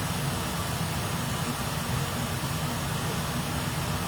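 Steady low hum with an even hiss over it, from a fan running without change.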